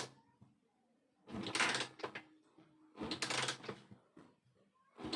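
Honda TMX125 Alpha single-cylinder engine being cranked over without firing, in short mechanical bursts of about a second each, twice and starting a third near the end. The engine is turned over with the ignition off so oil reaches the piston before the first start.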